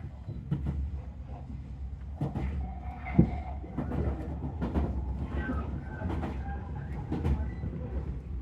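Commuter electric train running between stations, heard from inside the carriage: a continuous low rumble with irregular clicks and knocks of the wheels over the track, one louder knock about three seconds in.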